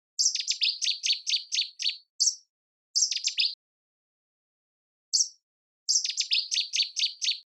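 Songbird singing two identical phrases. Each phrase is a few sharp high notes, then a rapid run of about six falling whistled notes. A short note or two comes between the phrases. The gaps are dead silent, as if the song were looped.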